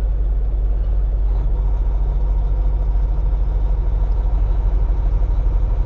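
Semi-truck's diesel engine running with a steady low drone, plus road noise, heard from inside the cab while driving.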